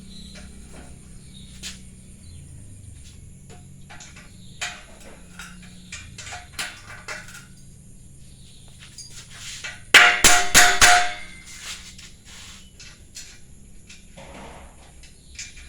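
Steel parts knocking and clinking as they are handled. About ten seconds in comes a quick run of about half a dozen hammer blows on steel, which ring briefly.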